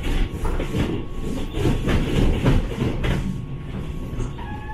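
Passenger train running on the rails, heard from inside the carriage: a steady rumble with irregular clacks and rattles that ease off a little after about three seconds.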